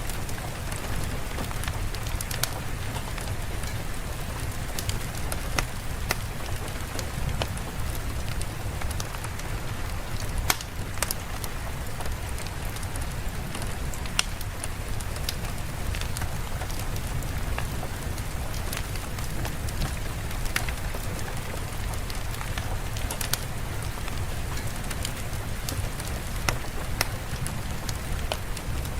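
Steady rain falling, an even hiss with many scattered sharp ticks and pops throughout.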